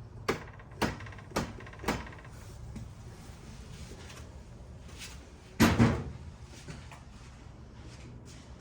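Workshop handling noises from the parts and tools around the ATV's steering stem: four sharp clicks about half a second apart, then a louder clunk about five and a half seconds in.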